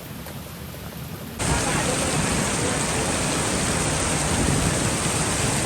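Heavy tropical rain pouring down in a steady hiss. About a second and a half in, it jumps abruptly to a much louder, fuller downpour.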